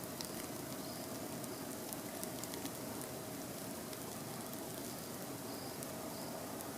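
Wood campfire burning with a steady hiss and scattered sharp crackles and pops.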